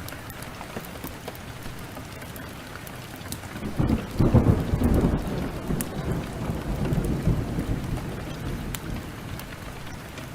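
Heavy rain falling steadily, with a roll of thunder breaking in about four seconds in, loudest for about a second and rumbling away over the next few seconds. A wood fire crackles in sharp ticks throughout.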